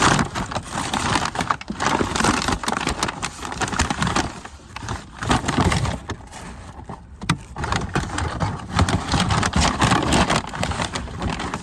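Loud close-up eating: crunching and chewing fried chicken, with many short crackles and clicks.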